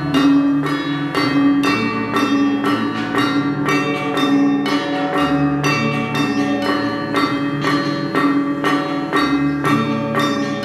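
Balinese gamelan gong ensemble playing: struck metallophones ring in a fast, even pulse over sustained low gong tones.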